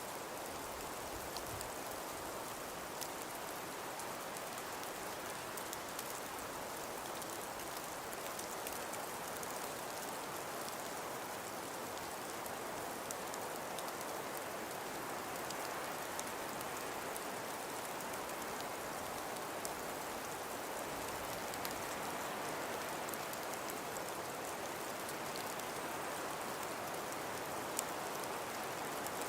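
Snowstorm ambience: an even, steady hiss of wind and falling snow, with faint scattered ticks.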